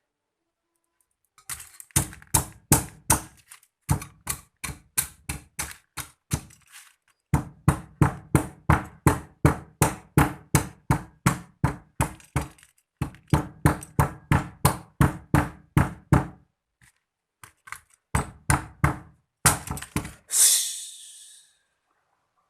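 Computer mouse buttons clicked rapidly over and over, about four to five clicks a second in several runs with short pauses, followed near the end by a brief hissing rush.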